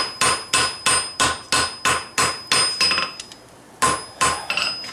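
Steady hammer blows, about three a second, on hot steel on an anvil, each followed by the anvil's ring: forge-welding expanded steel onto a high-carbon steel core. The blows stop about three seconds in, followed by a few light taps and one more blow near the end.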